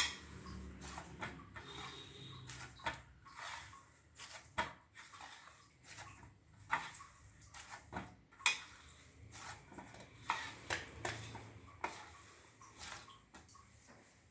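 Hands kneading chhana dough on a plate, with irregular light knocks and clinks against the plate one to three times a second.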